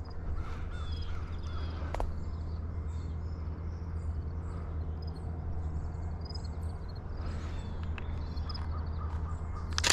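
Birds calling faintly over a steady low rumble, with a sharp click about two seconds in and a louder burst of clicking near the end.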